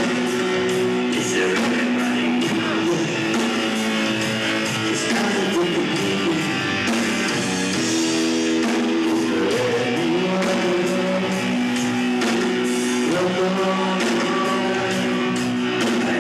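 Live rock band playing: guitar chords with a singing voice.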